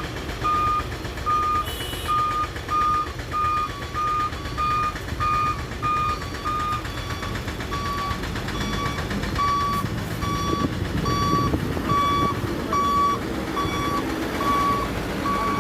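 Dump truck reversing: its back-up alarm beeps steadily, about one and a half beeps a second, with the diesel engine running underneath and growing louder about two-thirds of the way through. About seven seconds in, the beeping shifts to a slightly lower pitch.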